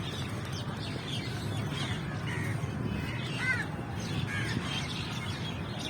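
Several birds calling in short, repeated notes, with crows cawing among them, over a steady low background rumble.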